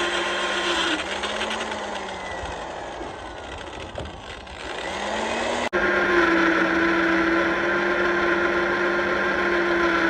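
A power tool's electric motor running with a steady hum. From about a second in its pitch and level sag and then climb back, and the sound jumps back to full strength abruptly near six seconds.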